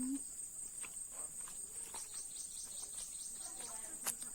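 Steady high-pitched drone of insects, with a few short low chicken clucks and scattered light taps; a sharp click about four seconds in.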